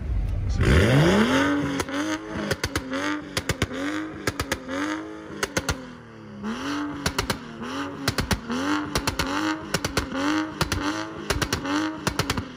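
BMW F32 4 Series coupe engine revved hard in place: one long climb about a second in, then a rapid string of throttle blips, with the exhaust popping and crackling between blips from a pops-and-bangs tune.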